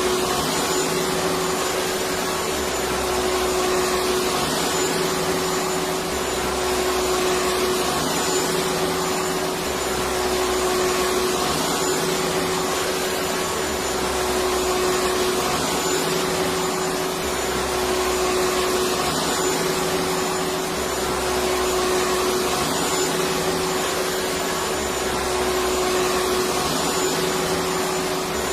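Electric vacuum cleaner running steadily: an even rushing of air with a steady motor whine, and a low hum that swells about every two seconds.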